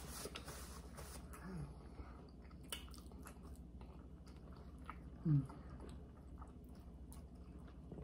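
Close chewing and biting into barbecued baby back pork ribs, with small scattered mouth clicks. A short low hum of a voice comes about a second and a half in, and a louder one about five seconds in.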